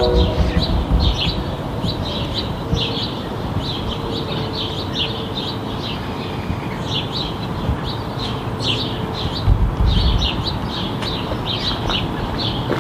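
Small songbirds chirping repeatedly in quick, high calls over a steady low rumble, with a brief low thump near the start and another about ten seconds in.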